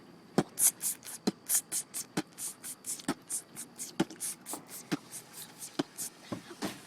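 A consumer firework going off in a rapid, irregular run of sharp pops and crackles, several a second. It starts about half a second in and dies out near the end.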